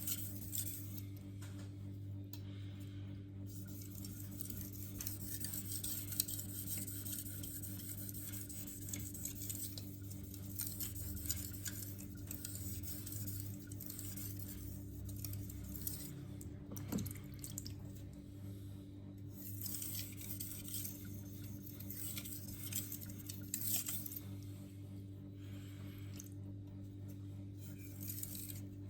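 Knife edge drawn lightly back and forth across a Shapton Pro 5000-grit whetstone in burr-minimizing passes: a soft, repeated scraping hiss that comes and goes with each stroke, over a steady low hum.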